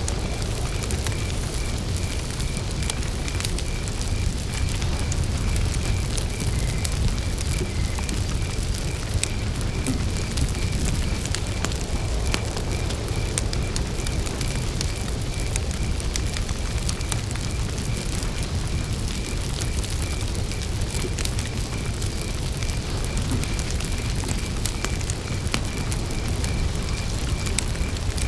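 Wood campfire burning with a steady low rumble and scattered sharp crackles and pops. Over it, a cricket chirps in an even, unbroken rhythm.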